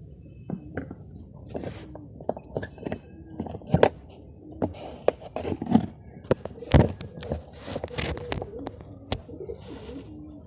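Pigeons cooing, low and in short phrases, under many sharp knocks and clatters, the loudest of them near the middle.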